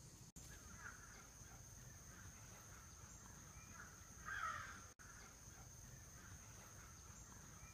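Near silence with a faint steady high-pitched hiss, and one short harsh bird call about halfway through.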